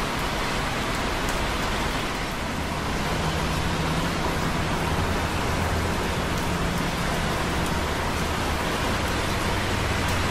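Light rain dripping on concrete close by, over a steady hiss of busy traffic on wet roads below. A low hum joins about three seconds in.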